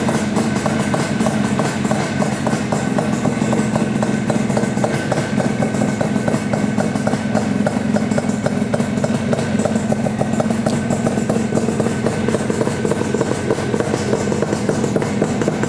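1976 Yamaha RD400's air-cooled two-stroke parallel twin running at a steady speed, its exhaust note coming through DG expansion chambers.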